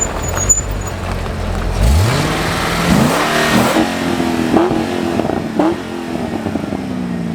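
Car engine revving hard as the car accelerates: the engine note climbs sharply about two seconds in, jumps in pitch a couple of times, then slowly falls away as it eases off.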